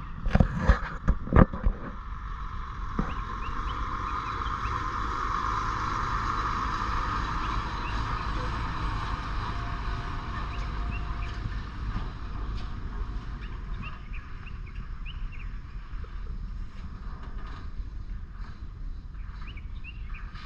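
Heavily loaded truck's engine working under load on a climb: a steady low rumble that swells and then eases. A few sharp knocks come in the first two seconds.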